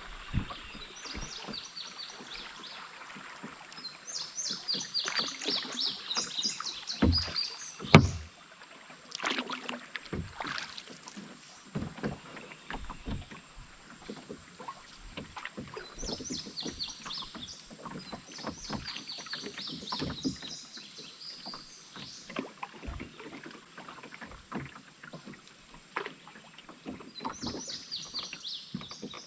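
Canoe paddling: repeated splashing strokes of the paddle in the river water, with scattered knocks and clicks throughout. One sharp knock about eight seconds in is the loudest sound.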